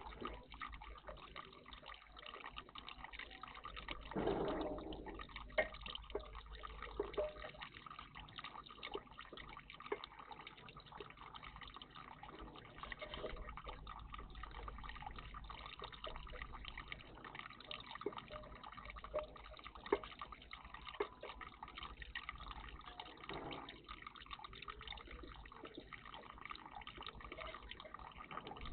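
Water trickling and dripping in a garden bird bath, with a brief louder splash about four seconds in.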